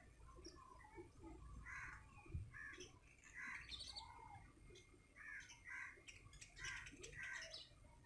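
Faint bird calls: short chirps and calls, some high and thin, some lower and arched, coming every second or so over a low background rumble.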